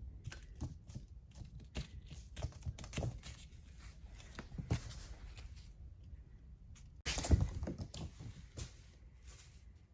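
A kitten and a cat play-fighting: irregular scuffling, rustling and soft thumps, with a louder bout of scuffling about seven seconds in.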